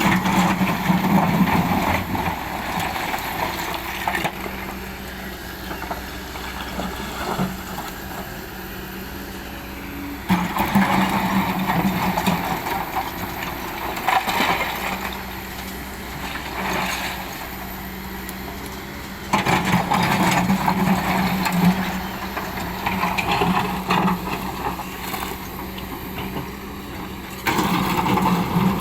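Hydraulic excavator's diesel engine running, its level rising and falling as it works. The sound jumps up suddenly four times, about every nine seconds, then eases off over a few seconds each time.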